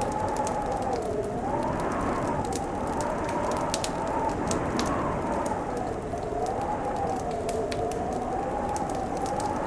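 Wood fire crackling, with scattered sharp pops and snaps, over a steady howling wind whose pitch wavers slowly up and down.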